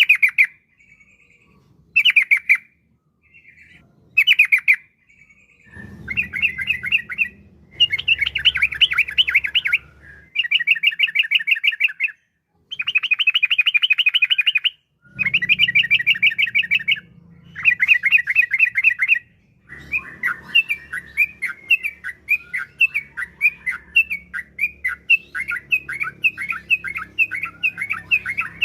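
Yellow-vented bulbul (trucukan) singing in fast bubbling, rattling phrases. Short bursts at first, then phrases of a second or two with short gaps, and from about two-thirds of the way in a continuous chattering run of notes.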